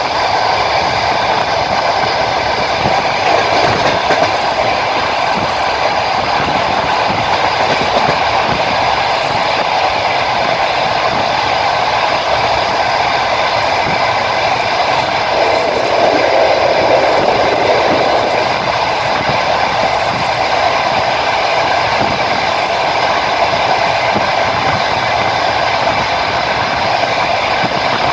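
Passenger train running at speed, heard from inside the carriage: the steady rumble of wheels rolling on the rails, which swells a little about halfway through.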